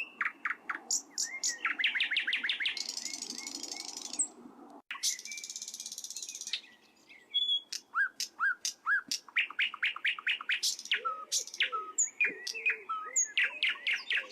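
Small birds chirping in quick runs of sharp, high notes, with two buzzy hissing stretches in the first half and a brief break about five seconds in.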